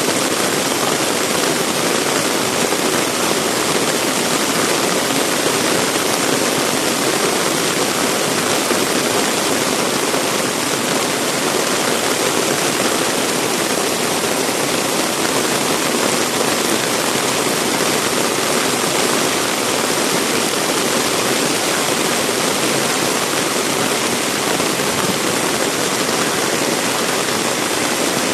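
Heavy rain pouring steadily: a loud, even hiss of falling water with no let-up.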